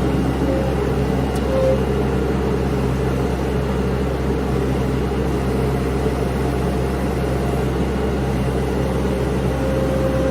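Mini skid steer's engine running steadily at constant speed, a low drone with a steady higher hum over it.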